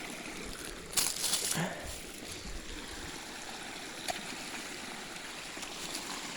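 Creek water running steadily, with a brief scuffing, rustling noise about a second in.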